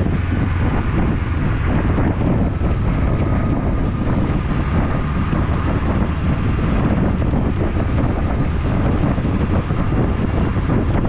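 Steady wind noise buffeting an action camera's microphone on a moving motorcycle, with the motorcycle's engine running underneath.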